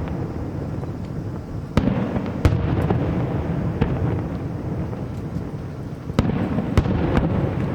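Aerial fireworks display: shells bursting overhead with sharp bangs a second or so apart, over a continuous low rumble of echoing booms.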